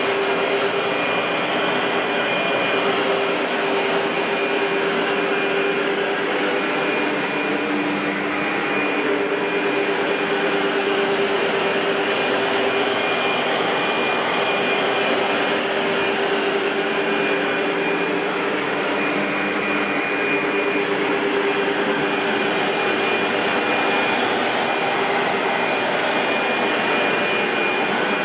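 Century 400 U-Vac (SEBO-built UPV 12) commercial upright vacuum cleaner running steadily: an even rush of air with a constant motor hum and a faint high whine that comes and goes.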